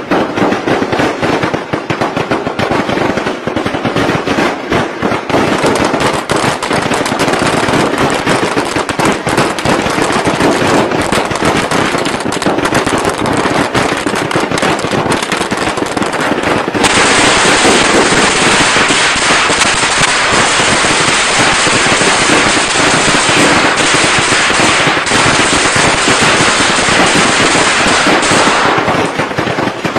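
Traditional Vietnamese firecrackers going off in a dense, continuous crackle of rapid bangs. About 17 seconds in, the crackle turns denser and hissier, then eases back near the end.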